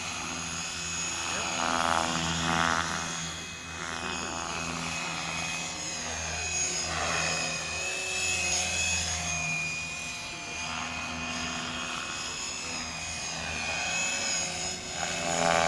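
Electric Gaui Hurricane 425 radio-controlled helicopter flying: a steady high motor-and-gear whine over the low hum of the rotor, with louder whooshing swells from the blades several times as it manoeuvres.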